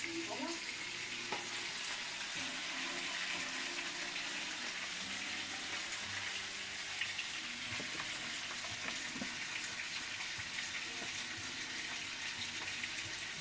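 Food frying in hot oil in a pan: a steady sizzle with scattered small pops and crackles.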